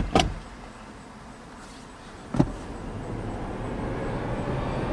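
Car noise: two sharp knocks at the start and another about two and a half seconds in, over a steady low rumble that grows louder.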